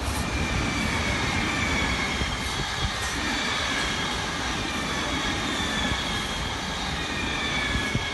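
South Western Railway electric multiple-unit passenger train passing close by: a loud, steady rumble of wheels on rail with high whining tones that slide slowly down in pitch.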